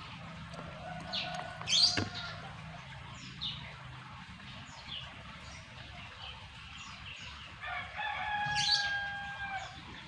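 Rooster crowing, with one long held crow near the end and a shorter one about a second in, while small birds give short, high, falling chirps.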